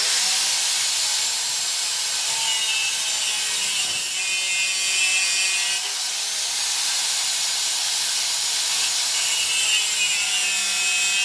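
Power tool cutting through steel, a steady loud hissing cut with a faint high whine, running without a break.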